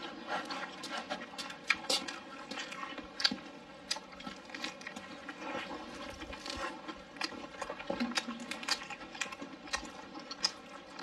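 Close-miked chewing and lip-smacking of a person eating a mouthful of rice and meatball: many small sharp clicks and smacks at an uneven pace.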